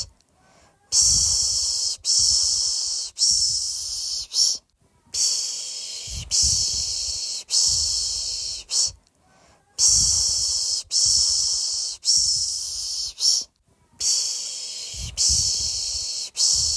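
A person shushing a baby to sleep with the 'pış pış' sound: rhythmic 'shh' hisses in groups of three long shushes and a short one, each group followed by a pause of about a second.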